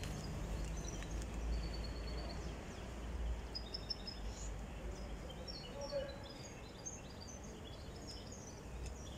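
Small birds chirping in many short, high notes that overlap from about a second and a half in, over a steady low outdoor rumble.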